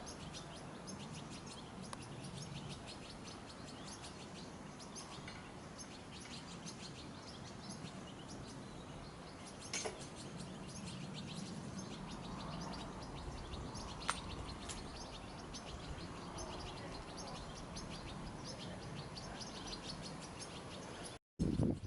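Small songbirds chirping and twittering, with many short high calls in quick succession, and two sharp clicks at about ten and fourteen seconds in.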